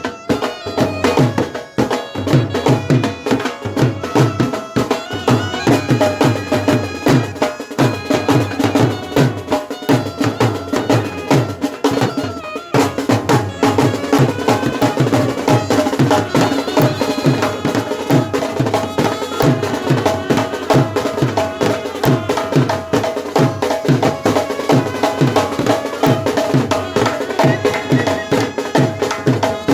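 Brass band playing traditional Himachali folk music, with held wind melody over a steady, fast drumbeat.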